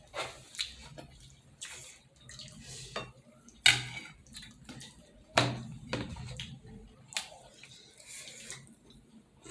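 Close-up eating sounds of juicy momos being bitten and chewed: irregular wet smacks and squelches with a few sharp clicks, the loudest about three and a half and five and a half seconds in.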